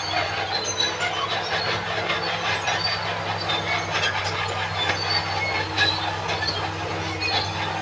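Crawler bulldozer running steadily, its engine a low drone under the squealing and clanking of its steel tracks.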